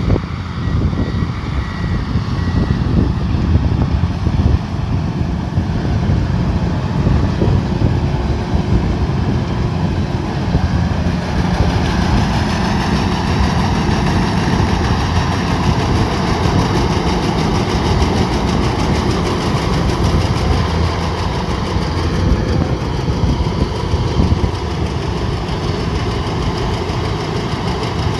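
Combine harvester running steadily, its engine and machinery droning. About eleven seconds in, a brighter, higher rushing sound joins and continues.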